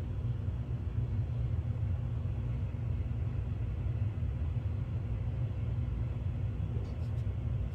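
Steady low background rumble, unchanging throughout, with a few faint light ticks near the end.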